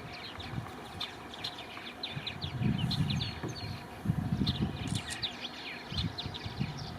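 Songbirds chirping and singing in the background, many quick, high, downward-sliding notes overlapping throughout, with intermittent low rumbles now and then.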